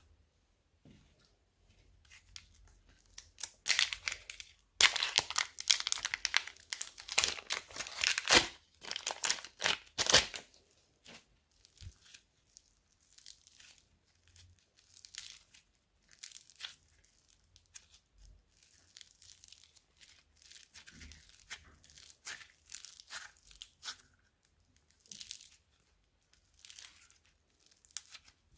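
Plastic bags crinkling and tearing as slime is worked with them. A loud, dense stretch of crackling from about three to ten seconds in gives way to softer scattered crinkles.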